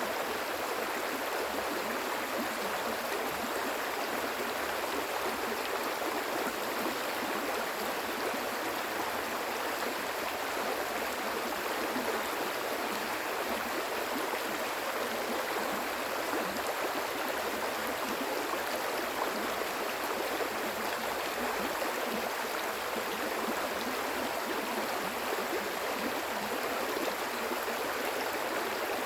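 Stream water flowing and gurgling in a steady, unbroken rush.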